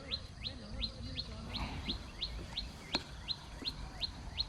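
A bird repeating a short, high chirp that drops in pitch, evenly spaced at about three a second. There is a single sharp click about three seconds in.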